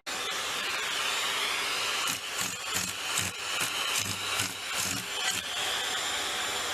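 A small motor running with a steady whir that drifts slightly in pitch, with irregular knocks and rattles over it from about two seconds in.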